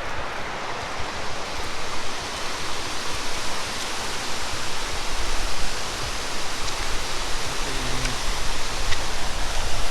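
Steady rushing of running water, with an uneven low rumble underneath.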